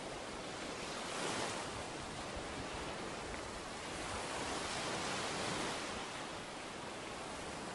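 Ocean surf washing onto a beach, a steady rush with two louder surges, one about a second in and a longer one in the middle.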